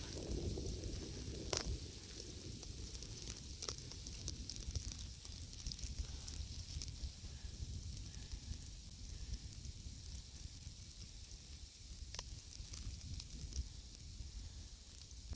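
Falling snow in a storm ticking on clothing and the microphone: a steady, fine crackling hiss over a low wind rumble, with a few faint clicks.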